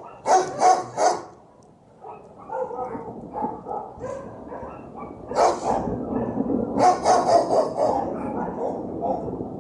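Dog barking repeatedly: a quick run of three barks at the start, quieter yaps after that, then another bark about halfway and a burst of several barks later on.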